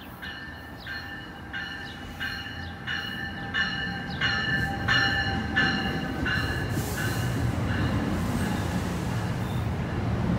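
NJ Transit commuter train passing at speed: a bell rings steadily about every 0.7 s and fades out about seven seconds in, while the rumble of the train grows louder. The rushing roar of the cars and wheels takes over as they go by.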